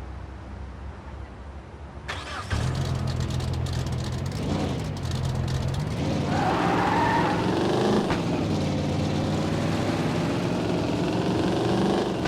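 Car engine running at a low hum, jumping louder about two seconds in, then revved several times with the pitch rising each time.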